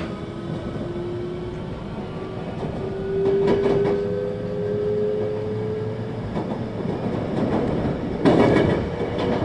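JR 521-series electric multiple unit running, heard from inside the car: its traction motor whine climbs slowly and steadily in pitch as the train gathers speed, over the rumble of the wheels on the rails. About eight seconds in comes a louder burst of wheel clatter over track joints.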